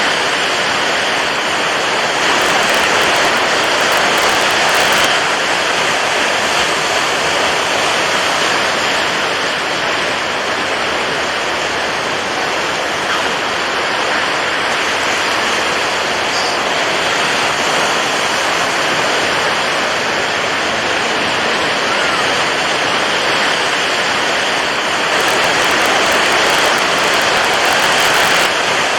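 Water waves washing in a steady rush, swelling louder a few seconds in and again near the end.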